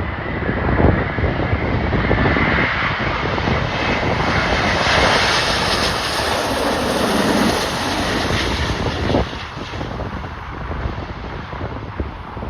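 Jet airliner passing close by on its landing approach, its engine noise swelling to a peak mid-way with a falling whine, then dropping off about three-quarters of the way through. Gusty wind buffets the microphone throughout.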